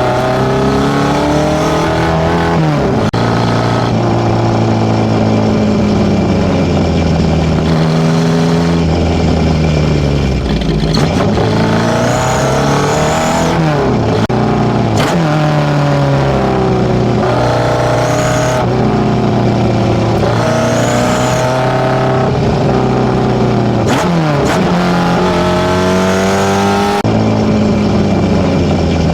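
Tuned Nissan A15 inline-four breathing through FCR41 carburettors into a one-off 54 mm stainless exhaust, revving up and down again and again. Steadier stretches lie between the revs.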